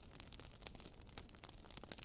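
Campfire crackling faintly with scattered sharp pops, while short high chirps repeat every half second or so from the night forest.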